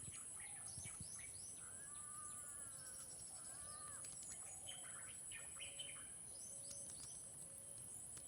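Several birds chirping and calling: many quick falling chirps, with a few longer arched whistled calls in the middle, over a steady high-pitched insect drone.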